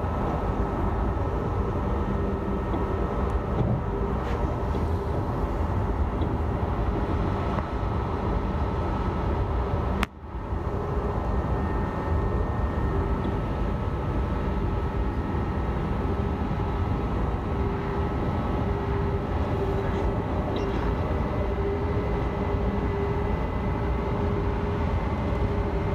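Alstom Régiolis regional train running at speed: a steady rumble of wheels on rail with a constant hum from the train's equipment. The sound cuts out briefly about ten seconds in, then returns unchanged.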